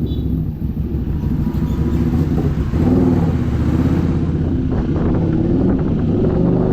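Keeway SCR 250's V-twin engine running through a Racefit free-flow exhaust. The revs pick up about three seconds in and then rise and fall.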